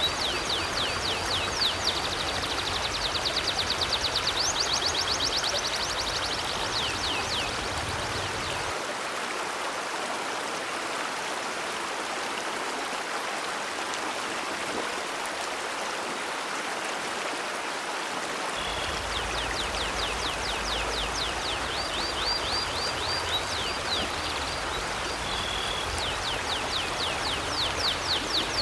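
River water flowing steadily. A bird sings over it in fast runs of high, down-slurred chirps for the first several seconds and again from about two-thirds of the way through.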